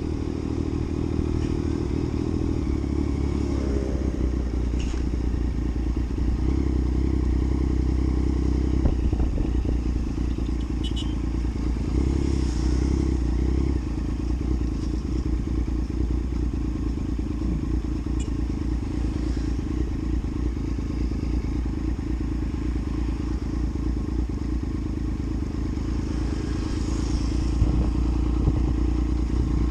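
Yamaha MT-09's inline three-cylinder engine running steadily while riding, its note shifting a little with the throttle and swelling louder near the end.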